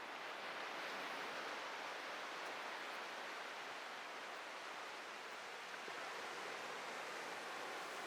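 Atlantic surf washing onto a beach: a steady rush of wave noise that swells slightly about a second in.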